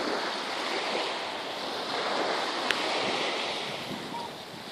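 Sea waves washing onto the shore, a steady rushing that swells and eases, with a single sharp click a little past halfway.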